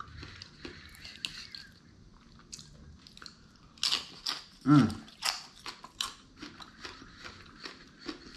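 Close-miked chewing and crunching of crunchy food, a quick run of sharp crunches and mouth clicks, busiest about halfway through, with a brief hum from the eater.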